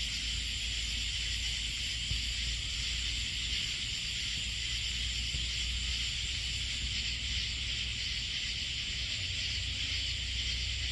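Steady chorus of night insects, a continuous high shrill hiss with a faint pulsing shimmer at the top, over a constant low rumble.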